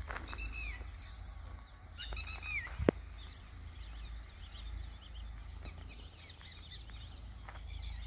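Birds calling: two louder calls whose notes slide down in pitch, one at the start and one about two seconds in, over many faint high chirps. A single sharp click just before three seconds is the loudest sound, over a steady low rumble.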